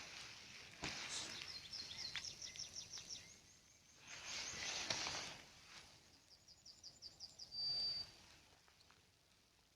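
Songbird singing in a spring forest: two phrases of rapid repeated high notes, the second ending on a short held whistle. Between them, a brief rush of noise.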